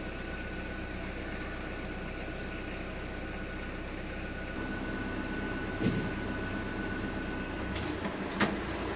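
Dutch barge's engine running steadily under way, with a thin high whine over the drone that stops near the end. Two sharp knocks come about six seconds in and shortly before the end.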